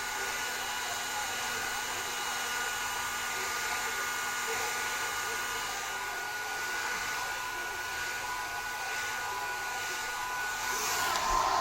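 Hand-held hair dryer blowing steadily, a constant rush of air with a thin motor whine. Near the end the whine drops in pitch and the air noise swells briefly.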